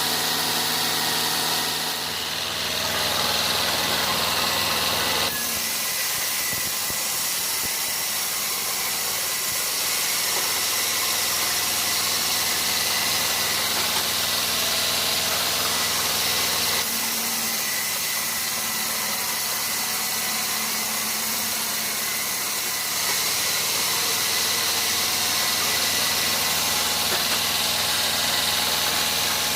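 Sawmill machinery running steadily with a low engine hum, changing abruptly in character about 5 and 17 seconds in.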